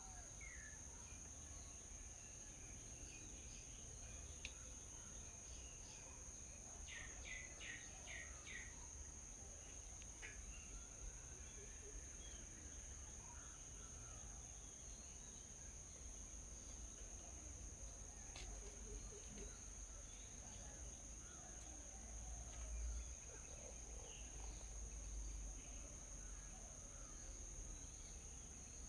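Faint wild birds chirping in scattered short calls, with a quick run of about five notes around seven seconds in, over a steady high-pitched drone and a low rumble.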